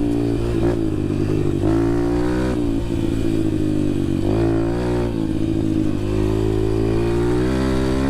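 Yamaha TT-R125 dirt bike's single-cylinder four-stroke engine under way, its pitch dropping and climbing again several times as the rider works the throttle and gears.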